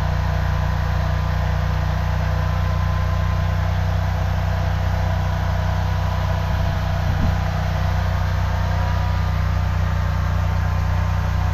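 High-pressure drain jetter's engine running steadily while the jetting nozzle works through a sewer line to clear tree roots.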